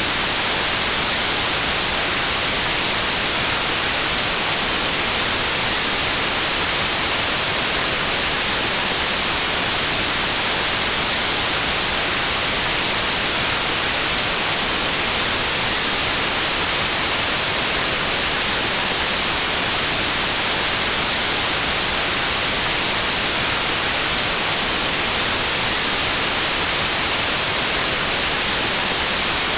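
Steady, unchanging white noise: an even hiss, strongest in the high frequencies.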